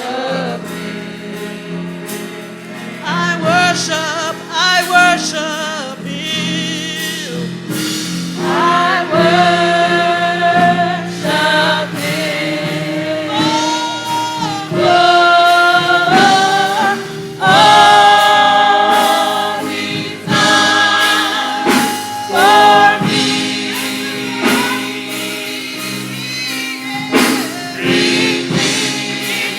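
Gospel singing with a choir or congregation, held notes with vibrato over steady sustained keyboard chords.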